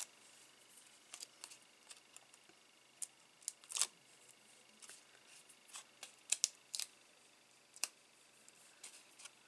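Small, irregular clicks and brief rustles from handling cardstock and peeling and pressing dimensional foam adhesive pads, with one longer rustle about four seconds in.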